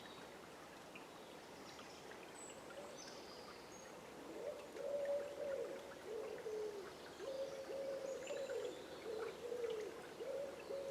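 Low hooting bird calls begin about four seconds in, a run of drawn-out notes that alternate between a higher and a lower pitch, over the steady rush of a river. Faint high chirps of small birds sound now and then.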